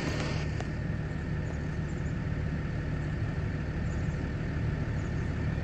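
Truck diesel engine idling with a steady low drone.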